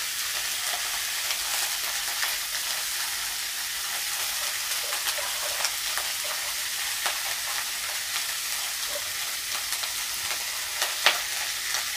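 Chopped vegetables frying in hot oil in an iron karahi: a steady sizzle with scattered small pops and one sharper crack about eleven seconds in.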